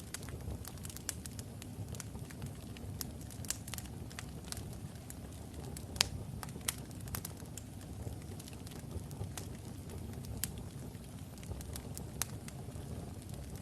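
Wood fire of burning logs in a fireplace crackling and popping, with a steady low rumble of flames under scattered sharp pops, one louder snap about halfway through.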